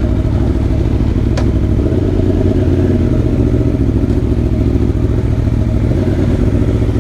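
Aprilia Tuono V4 Factory's V4 engine running steadily under way at an even pace, with one sharp click about a second and a half in.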